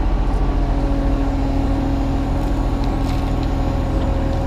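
Kubota U35-3 mini excavator's diesel engine running steadily under working load with a steady hydraulic whine while it digs. A few faint ticks come a little past halfway.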